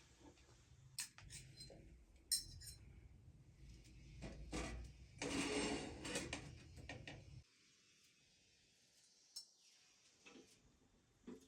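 Pots, dishes and utensils clinking and knocking as they are handled, with a louder clatter about five seconds in. A low rumble lies under it and stops suddenly a little past seven seconds.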